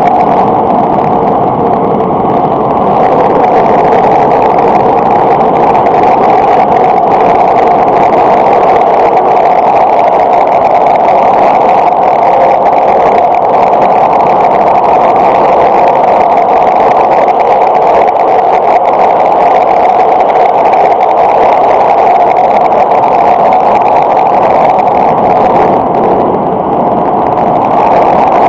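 Steady running noise of a Thunderbird limited express electric train at speed, heard inside the passenger car: a constant loud wheel-on-rail and traction noise.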